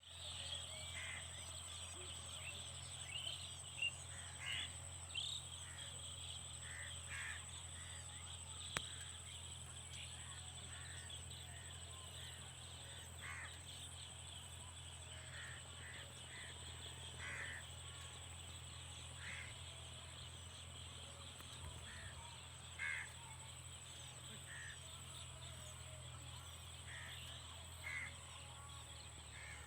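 Outdoor nature ambience: short bird calls, crow-like, every second or two, over a steady high-pitched drone and a low hum.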